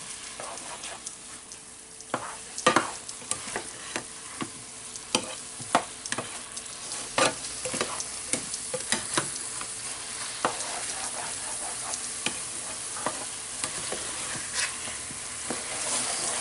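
Sliced mushrooms and onion sizzling in a frying pan while being stirred, with a steady sizzle and irregular sharp clicks of the utensil against the pan.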